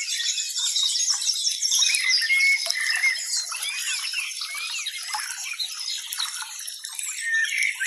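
Dense chorus of many birds chirping and twittering at once, overlapping short notes and quick whistled glides with no pause.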